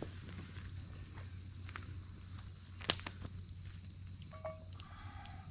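Steady high-pitched chorus of insects, with one sharp click about three seconds in.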